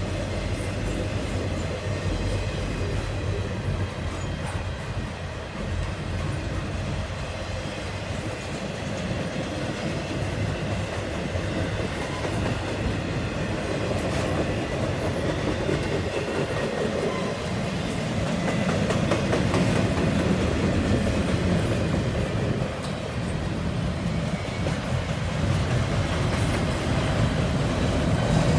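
Double-stack intermodal freight train's container well cars rolling past: a steady rumble of steel wheels on the rails, with occasional clicks, swelling slightly about two-thirds of the way through.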